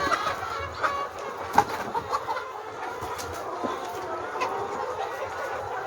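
A flock of hens clucking and calling over one another in the chicken house, with a few sharp clicks or knocks in the first couple of seconds.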